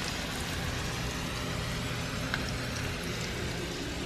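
Broccoli frying in oil in a pan: a steady sizzling hiss, with one small pop about two seconds in.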